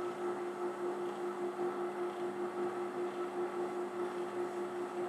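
Steady electric motor hum from running workshop equipment, with a slight regular pulsing in its level.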